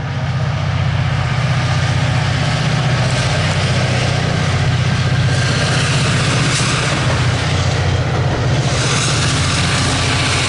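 VIA Rail passenger train with F40PH-2 diesel locomotives passing close by: a steady, loud diesel engine drone with rolling wheel and rail noise over it.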